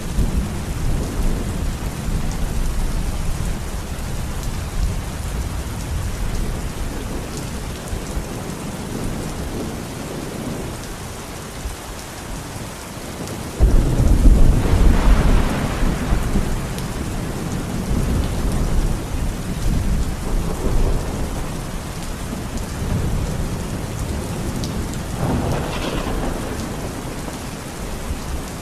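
Steady rain falling in a forest with rolling thunder. About halfway through, a loud clap of thunder breaks in suddenly and rumbles away over several seconds, and a smaller rumble follows near the end.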